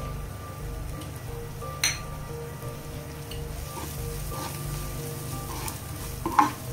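Chopped onions and spices sizzling in hot oil in a nonstick frying pan while a wooden spatula stirs them. There is a sharp knock about two seconds in and a few clicks near the end.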